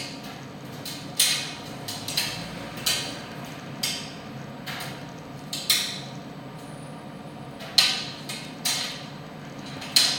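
Primus tumble dryer running: a steady hum from the turning drum with sharp, irregular knocks roughly once a second.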